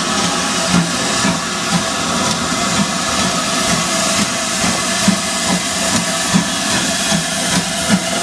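Steam locomotive working a train: a steady hiss of steam with regular exhaust beats, about two to three a second, coming slightly faster towards the end.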